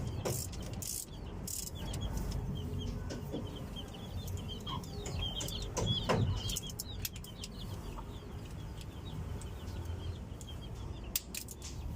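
Chickens clucking and chirping, with a few sharp clicks and a low rumble beneath.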